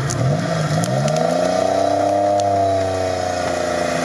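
Lada Niva's engine revving hard under load while pushing through swamp mud. Its pitch rises over the first second or two and then holds high.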